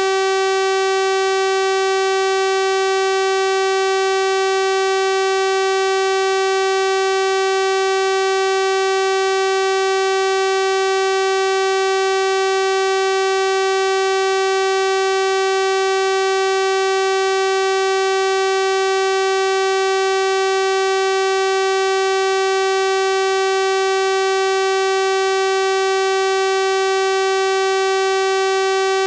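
Steady electronic 384 Hz sawtooth-wave tone, one unbroken buzzy pitch rich in harmonics, held constant without any change.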